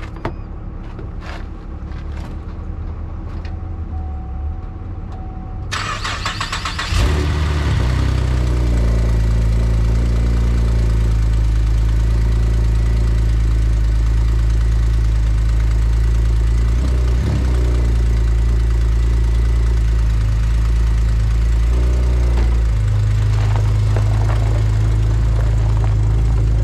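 Low engine rumble, then about seven seconds in the 2011 Camaro's 3.6-litre V6 cranks and catches on a jump start, and it settles into a steady idle.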